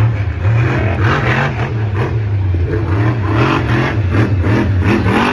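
Monster truck engine revving hard in repeated throttle bursts, rising and falling about once a second over a steady low drone.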